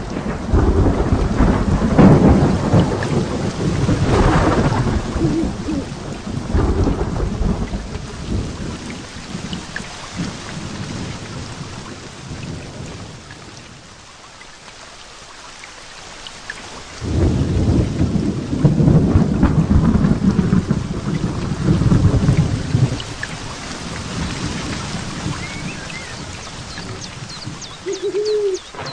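Heavy rain falling steadily through a thunderstorm. A long rolling rumble of thunder fades away over the first several seconds, then a second rumble breaks in suddenly about halfway through and dies away again.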